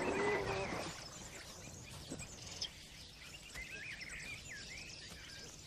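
Birds calling and chirping several times over a quiet outdoor background, after a brief rustling noise in the first second.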